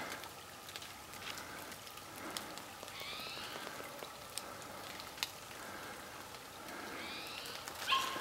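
Rain falling steadily on a wet forest, with scattered single drips ticking close by. Two brief high rising squeaks come through it, about three and seven seconds in.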